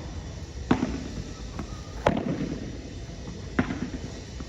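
Padel ball being played in a rally: three sharp pops about a second and a half apart, each ringing briefly, over a low background hum.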